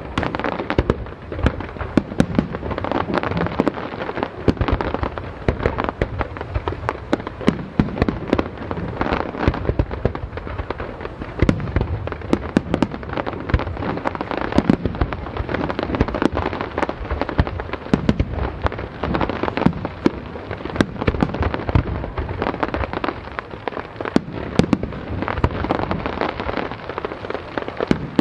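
Fireworks display: a dense, unbroken run of sharp bangs and crackles, many per second, some noticeably louder than the rest, over a continuous rumble of shells going off.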